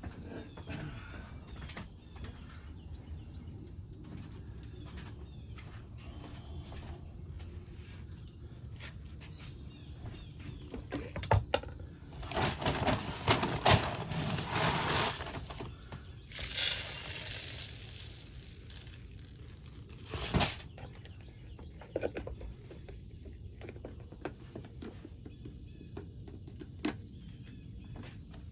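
Black oil sunflower seed being poured from a coffee-container scoop into a bird feeder. A rattling rush of seed comes about halfway through and lasts a few seconds, with a shorter pour just after. Clicks and knocks from the feeder and its lid being handled come before and after the pours.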